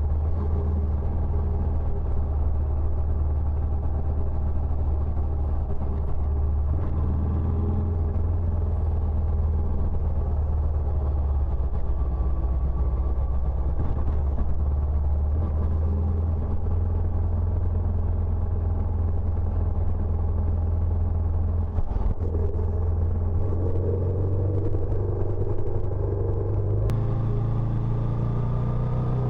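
Benelli Imperiale 400's single-cylinder engine running steadily through its stock exhaust. The pitch steps up near the end as the revs rise.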